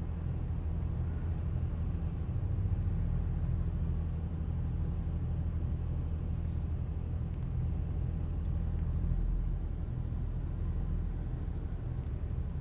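A vehicle engine running steadily at idle, a low even rumble with no change in pitch.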